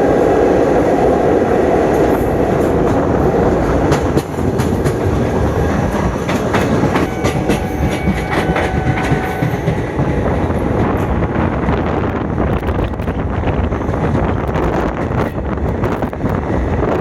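Passenger train running at speed, heard from aboard: a continuous rumble and rush of wheels on rail with clicking from the track. It is louder for the first four seconds, then drops a little. A faint steady whine comes in for a couple of seconds midway, and clicks grow more frequent toward the end.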